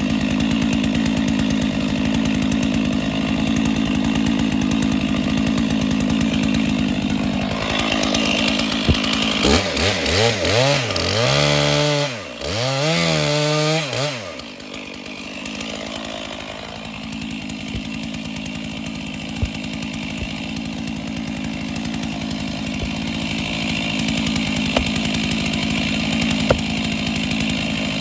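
Chainsaw cutting out an old cedar stump: the engine runs steadily under load, is revved up and down several times about halfway through and drops back, then runs steadily again.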